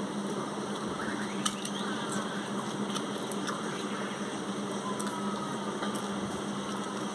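A steady low hum with a few soft, scattered clicks and taps, the sounds of eating watery rice by hand from a plate.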